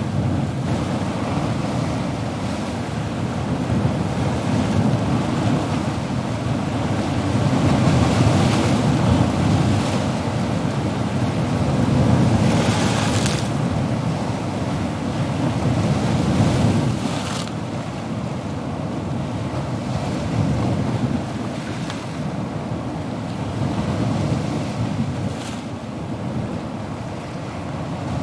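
Ocean waves breaking and washing up the shore, a steady surf noise that swells and eases every few seconds, with short hissing rushes of foam as waves break.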